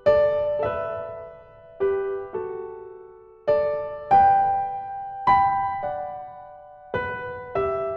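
Background piano music: slow, gentle chords and notes struck roughly once every half second to second, in pairs, each left to ring and fade.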